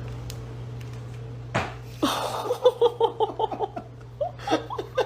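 A steady low hum, then a sudden sharp noise about a second and a half in, followed by a person laughing in rapid bursts that fade toward the end.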